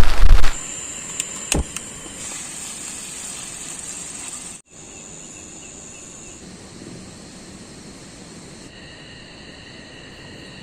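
Loud rain noise that cuts off suddenly about half a second in, followed by quiet outdoor ambience filled with steady high insect trilling, several chirring tones at once, with a few light clicks early on.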